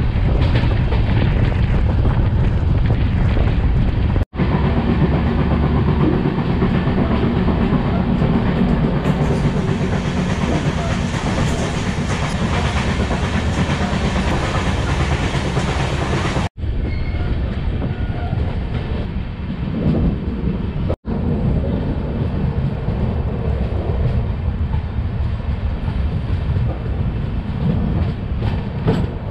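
Indian express passenger train running along the track, heard from the open coach doorway: a steady rumble of the coach and its wheels on the rails. It breaks off abruptly three times, about four, sixteen and twenty-one seconds in.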